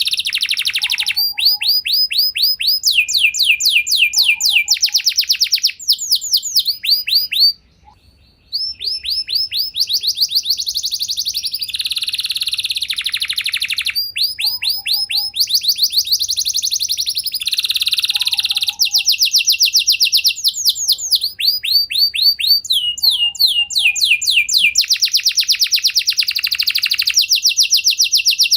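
Domestic canary singing a long, unbroken song of fast, high, evenly repeated trills, switching from one trilled phrase to the next every second or two. There is a brief pause about eight seconds in.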